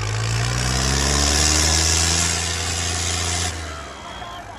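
Tractor engine running hard under load, its pitch climbing over the first two seconds and then holding, before it drops away sharply about three and a half seconds in.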